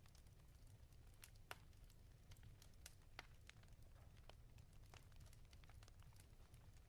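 Fire crackling in a fireplace, faint: irregular sharp pops and snaps, a few a second and one louder pop about a second and a half in, over a low steady rumble.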